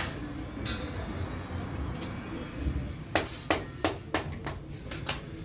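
A run of sharp, irregular knocks and clinks, some in quick succession a little past halfway, over a steady low rumble.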